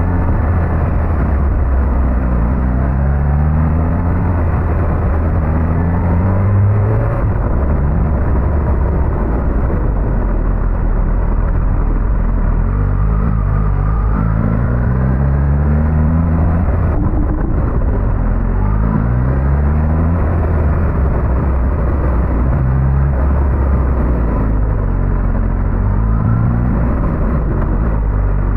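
Suzuki GSX-S1000GT's inline-four engine under way, its note climbing repeatedly as it accelerates and falling back as it eases off, over steady wind and road noise.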